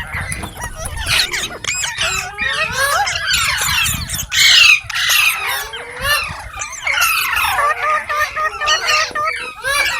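Green parrot chirping and squawking in a rapid, unbroken stream of warbling, gliding calls, with a louder squawk about halfway through.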